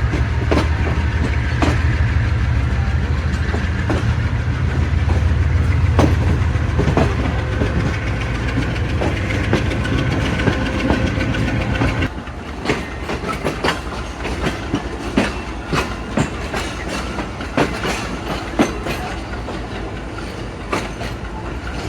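Passenger train on the move: a steady low drone for about the first half, which drops away suddenly, then the rolling rumble with sharp, irregular clicks and clacks of the wheels over rail joints.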